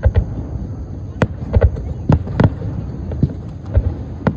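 Fireworks going off: an irregular string of sharp bangs and deep thumps, about ten in four seconds.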